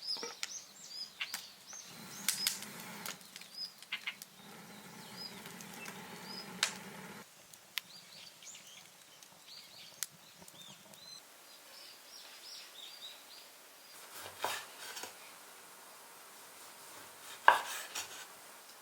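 Small birds chirping repeatedly, with scattered sharp clicks and knocks of objects being handled; a noisier stretch of rustling in the first few seconds.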